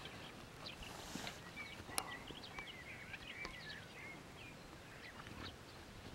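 Faint outdoor birdsong: many short, quick chirps, thickest in the middle, with a brief rustle about a second in and a single sharp click at about two seconds.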